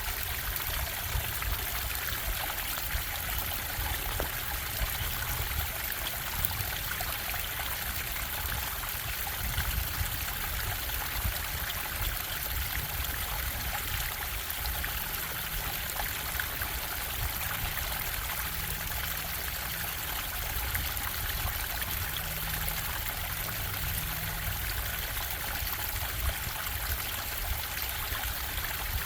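Bubbling stream: water running and trickling steadily over rocks, with a low rumble underneath.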